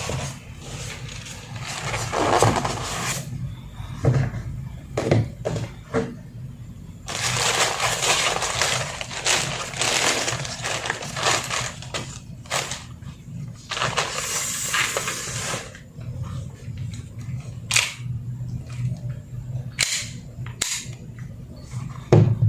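Hand-handling of a KJW CZ SP-01 Shadow gas blowback airsoft pistol and its parts: scattered sharp clicks and clacks, with longer stretches of scraping and rustling, over a steady low hum.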